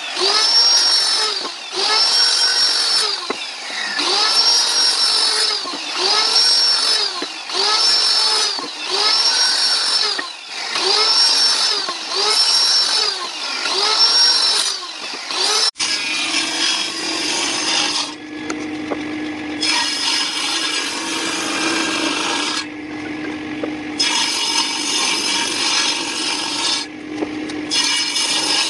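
Woodworking tool working wood in even strokes, about one every second and a half, each stroke rising and falling in pitch. About halfway through the sound cuts abruptly to a different tool sound with a steady low hum and noise that stops and starts.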